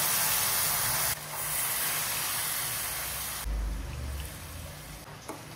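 Ground masala paste sizzling and hissing in hot oil in a frying pan. The hiss is loud at first and drops abruptly about a second in. It drops again about three and a half seconds in with a low thump, then carries on as a faint sizzle.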